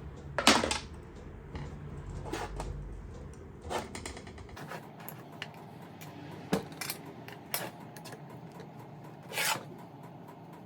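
Metal parts and hand tools being handled while a cross vice is taken apart: scattered short scrapes and knocks of metal on metal, the loudest about half a second in and another near the end.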